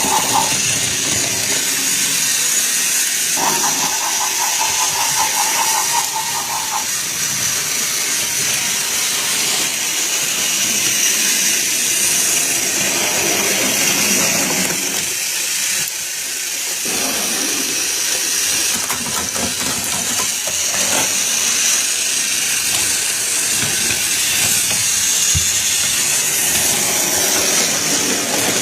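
Steam train sound effect: a steady hiss of steam, with a steady high tone sounding for about three and a half seconds, starting about three seconds in.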